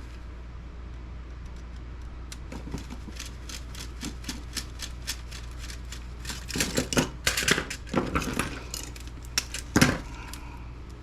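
Small plastic and metal laptop parts being handled and pried apart by hand: scattered clicks, taps and clinks, sparse at first and busier in the second half, with one sharper knock near the end, over a steady low hum.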